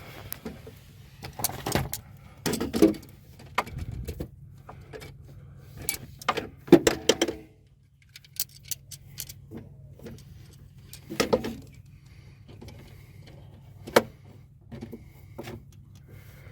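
Metal hand tools clinking, rattling and scraping in irregular bursts as a stripped Torx screw is worked out of a truck's accelerator-pedal throttle position sensor, with one sharp click near the end. A steady low hum runs underneath.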